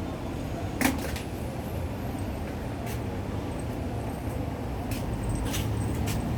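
Steady low background rumble with several short, sharp clicks or knocks scattered through it, the loudest about a second in.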